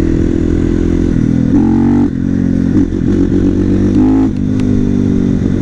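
450 cc supermoto's single-cylinder four-stroke engine running under way, its note rising and falling, with two short bursts of higher revs, about one and a half and four seconds in.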